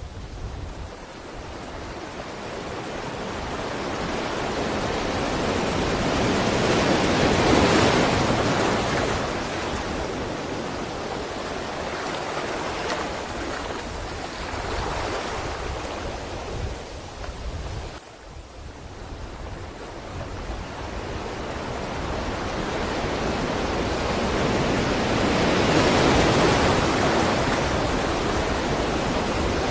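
Ocean waves breaking on a shore: a hissing wash of surf that builds slowly to two big swells, one about a quarter of the way in and one near the end, with a brief lull between them.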